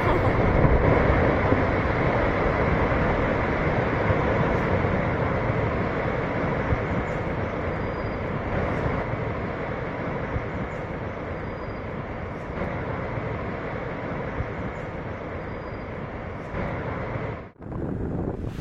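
Continuous heavy rumble of a landslide, with rock and debris from a collapsing mountainside pouring down. It fades gradually and breaks off briefly near the end.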